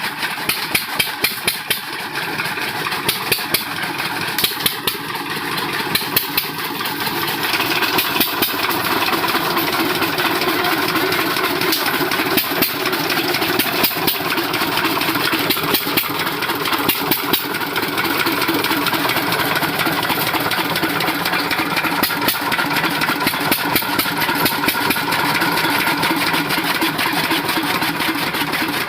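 A 12 hp farm diesel engine running steadily, with a regular, sharp beat of firing strokes. It gets slightly louder about eight seconds in.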